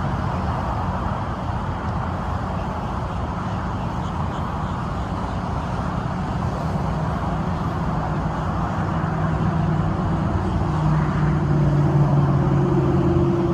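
Steady low rumble of a semi truck's diesel engine running, with a droning hum that grows stronger over the last few seconds.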